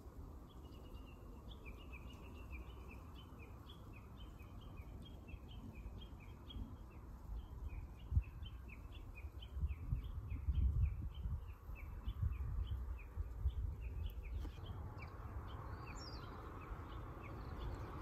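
A small bird calling a long, even run of short high chirps, about four a second, that stops about three quarters of the way through. Under it runs a low rumble that swells around the middle.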